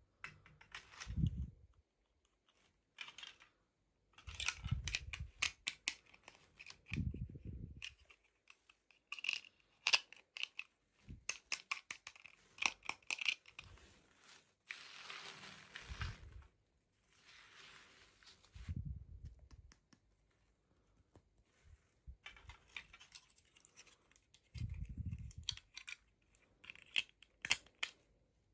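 Toy packaging being opened by hand: crinkling and tearing of wrapping, with scattered sharp clicks and dull bumps every few seconds.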